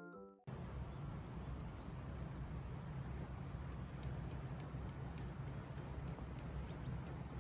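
A piano music cue ends about half a second in, giving way to steady outdoor ambience: a low, even hum under a light hiss, joined a few seconds in by a high, regular ticking or chirping about three times a second.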